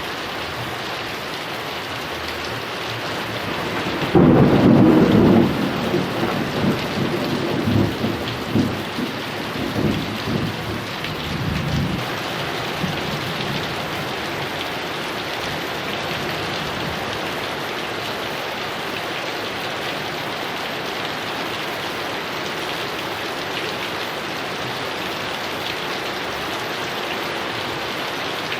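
Heavy rain falling steadily, with a thunderclap about four seconds in that rumbles and rolls away over the next eight seconds or so.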